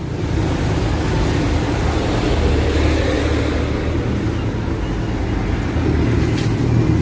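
Motor vehicle running on the road: a steady low engine and road rumble.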